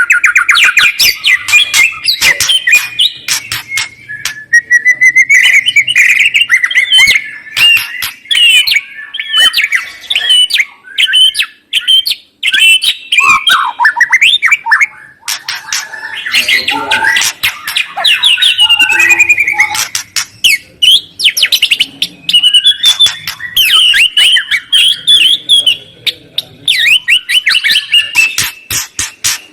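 Loud, continuous songbird song played as a lure track to get caged birds singing: rapid chattering phrases, sharp clicking rattles and whistled notes in quick runs, broken by brief pauses.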